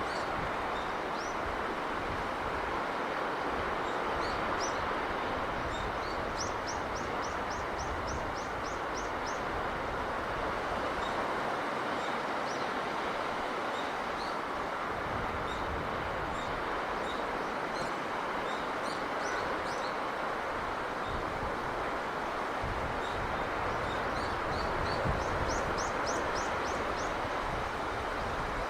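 Steady wash of sea surf and breeze, with a small bird calling over it in short high chirps, twice breaking into a quick run of about eight rising notes.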